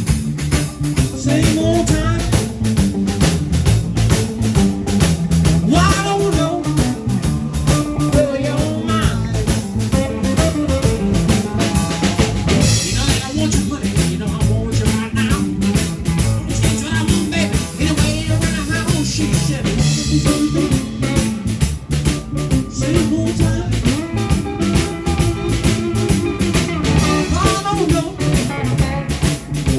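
Band playing live, with a steady drum-kit beat under the instruments.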